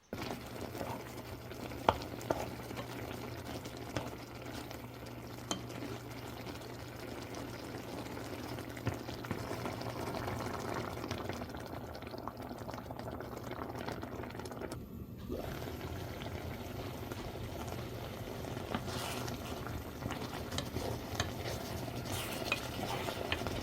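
A pot of liquid boiling on the stove: a steady bubbling with a constant low hum beneath it and a few light clicks.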